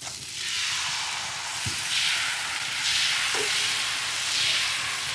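Sizzling on a hot galette griddle heated over a wood fire, setting in suddenly just after the start, then swelling and easing several times.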